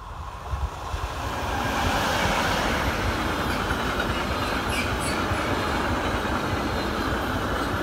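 A train passing close by on the rails. Its noise builds over the first two seconds, then holds as a steady, loud rumble of wheels on track.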